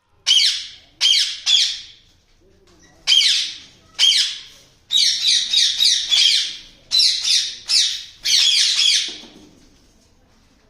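Yellow Indian ringneck parakeet squawking: about fifteen short, loud, shrill calls. They come singly at first, then in a quicker run of calls from about halfway through.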